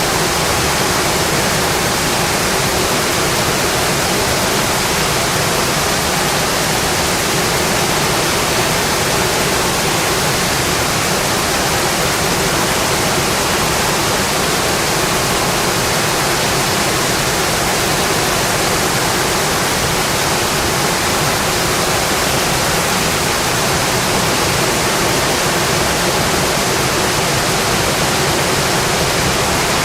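Rain falling steadily on a metal roof: a dense, even hiss that does not let up.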